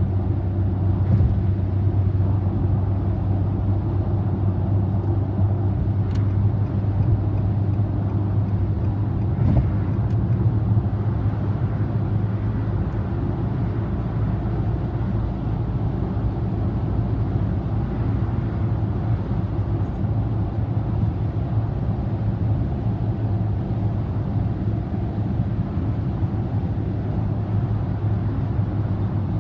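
A car cruising on the expressway, heard from inside the cabin: a steady low drone of tyre and engine noise. A couple of faint clicks come about six and ten seconds in.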